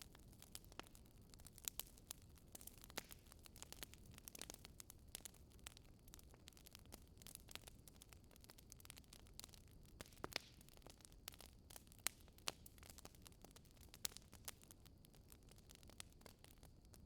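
Faint wood fire crackling in a fireplace: irregular snaps and pops over a low steady hiss.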